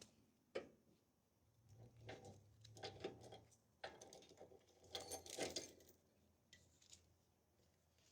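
Faint handling clatter: a couple of sharp clicks, then a busier run of small knocks and clinks through the middle, and a few light clicks near the end.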